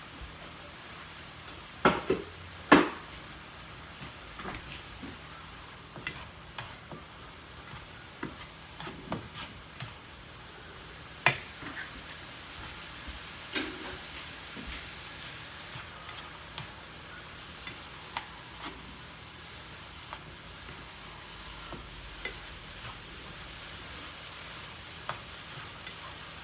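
Cauliflower rice frying in butter in a pan with a steady sizzle while it is stirred. A cooking utensil scrapes it around and knocks against the pan, loudest twice about two to three seconds in.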